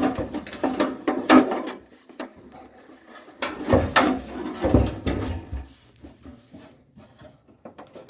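Irregular clunks, knocks and scraping of a part being handled and worked into place on the car, mostly in the first six seconds.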